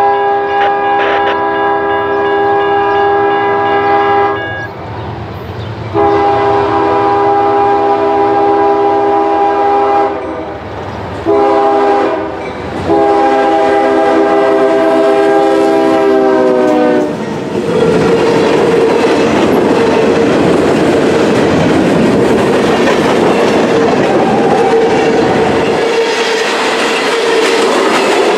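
CSX freight train's air horn sounding the grade-crossing signal, long, long, short, long, as it approaches; the pitch drops at the end of the last blast as the locomotive passes. Then the locomotives and a string of tank cars roll by, with a loud rumble, clickety-clack of wheels over the rail joints and a steady wheel ring.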